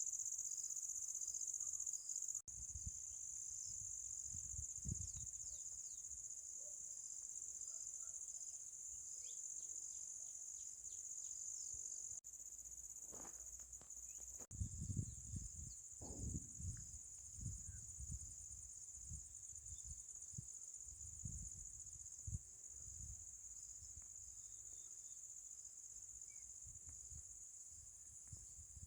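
Steady high-pitched insect chorus, a continuous trill, with irregular low knocks and rumbles that grow busier about halfway through.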